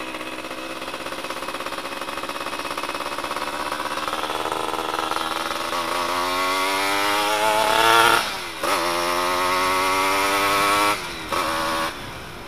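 Suzuki F1ZR's two-stroke engine running through an exhaust with its silencer baffle removed, very loud. The revs climb steadily, drop sharply about eight seconds in, climb again, then fall off twice near the end.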